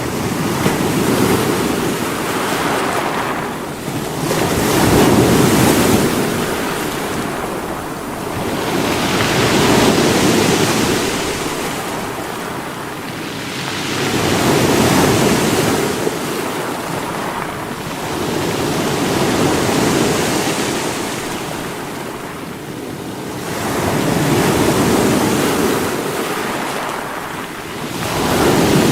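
Sea waves breaking against rocks, a steady wash of surf that swells and ebbs about every five seconds, six swells in all.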